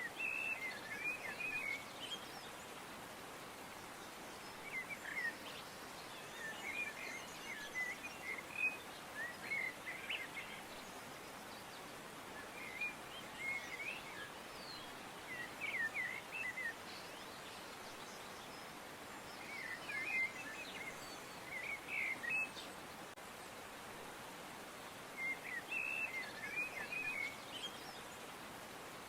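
Birds singing: short clusters of quick chirps and twitters every few seconds, over a steady background hiss.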